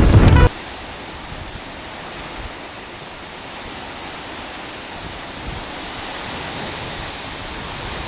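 Music cuts off about half a second in, leaving a steady, even rushing noise of a storm over open water.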